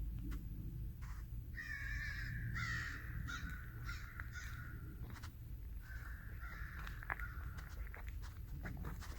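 A bird calling in two bouts of harsh calls, the first about a second and a half in and the second past the middle. Footsteps crunch along the trail near the end.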